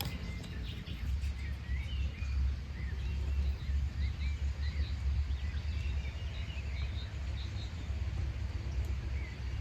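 Small birds chirping and calling in short, high notes scattered throughout, over a steady low rumble of breeze.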